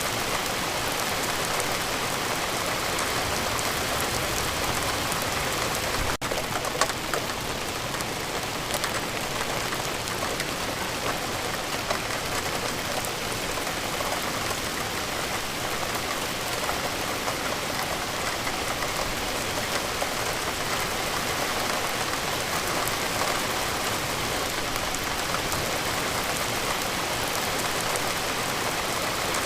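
Steady rain falling, a dense even patter of drops on a surface, with a momentary dropout about six seconds in.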